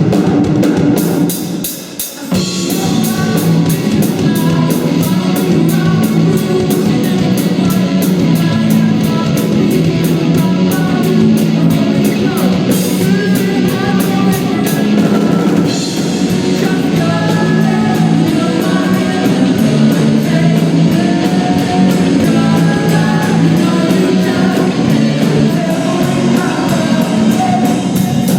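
Rock band performing a song: drum kit keeping a steady beat, guitar, and a lead voice singing, with a brief drop in level about two seconds in.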